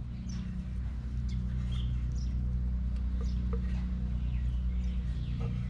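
Small birds chirping in short, falling notes over a steady low hum.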